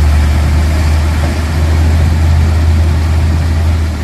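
Vehicle engine running with a steady low rumble, under an even hiss.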